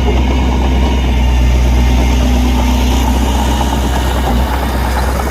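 Heavy diesel engine running steadily at an even, idle-like speed, with a deep constant hum and a brief dip about four seconds in.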